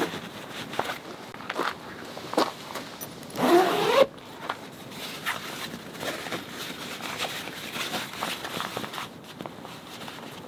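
A zipper pulled in one quick run about three and a half seconds in, the loudest sound here. Light rustling and small clicks of things being handled come before and after it.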